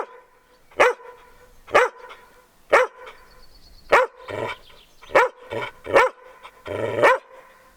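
Australian working kelpie barking repeatedly in short, sharp barks, about one a second at first, then coming faster after about four seconds in.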